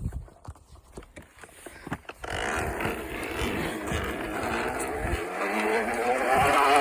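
Empty plastic water bottle clattering against a turning bicycle wheel, making a motorcycle-like buzz. After a few light clicks, the continuous rattle starts about two seconds in and grows a little louder toward the end.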